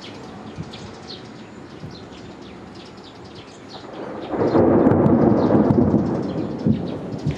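Heavy torrential rain with thunder: about four seconds in, a loud rumble of thunder rises, rolls for a couple of seconds, then fades back into the rain.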